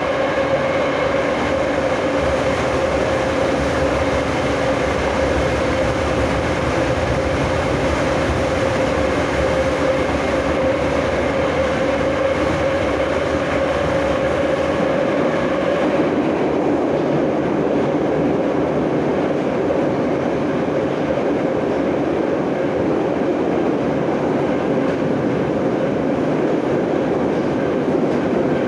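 Moscow Metro 'Nomernoy' (81-717/714) train running at speed, heard from on board: a steady rumble of wheels on rail with a constant whine from the traction motors and gearing. About halfway through, the whine fades and the rumble turns rougher.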